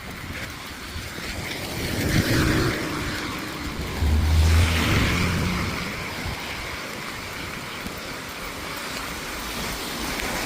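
Cars passing on a rain-wet street: tyres hissing through the water over an engine hum, with two passes swelling about two and four seconds in, the second louder.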